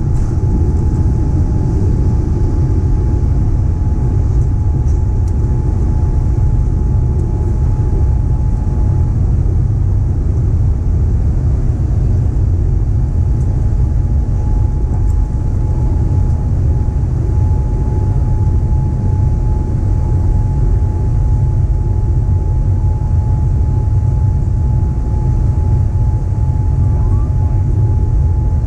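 Boeing 787-9 cabin noise: a steady, loud low rumble from the jet engines and airflow, with a constant thin whine running through it.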